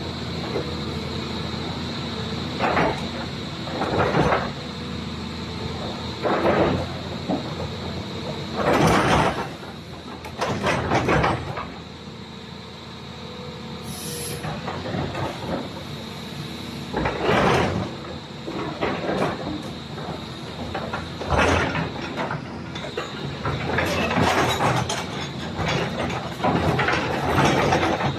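Volvo EC360BL crawler excavator at work: its diesel engine runs steadily with a constant high whine, under repeated surges of hiss and clatter about a second long each, coming more thickly near the end.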